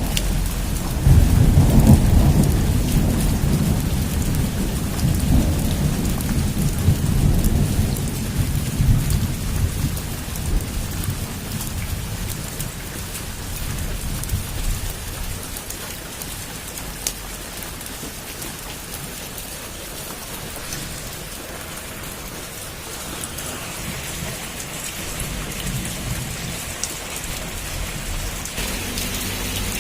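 Heavy rain falling steadily with thunder: a long low rumble of thunder rolls in about a second in and dies away over the next ten seconds or so, leaving the steady rain, with a fainter rumble near the end.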